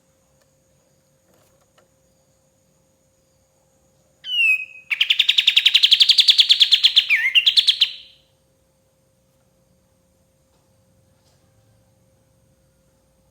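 Kapas tembak bulbul singing one phrase about four seconds in: a few short falling notes, then a fast, rattling trill lasting about three seconds that ends with a quick dip and rise in pitch.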